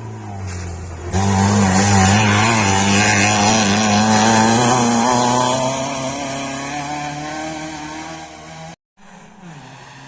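Rally car engine at high revs passing close, its pitch climbing slowly as it accelerates, then fading away. The sound cuts out abruptly for a moment near the end.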